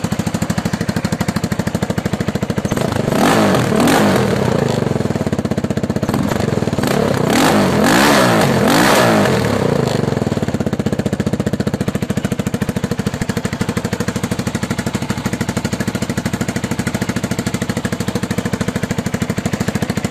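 An engine running at idle with a fast, even chug, revved up and back down twice, briefly about three seconds in and for longer about seven seconds in.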